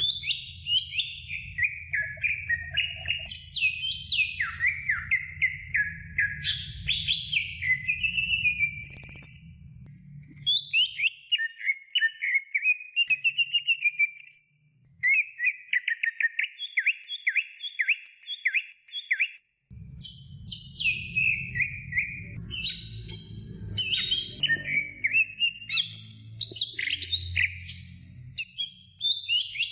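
Green leafbird (cucak ijo) singing a fast, varied song of quick falling whistles and chattering phrases. A little past the middle comes a run of evenly repeated notes at about five a second. A low background hum runs under the song except in the middle stretch.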